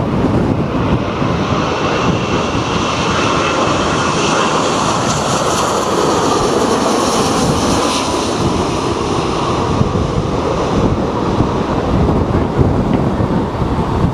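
Strong gusting wind buffeting the microphone. A jet airliner's engine whine and roar swells in the middle and then fades as the aircraft passes.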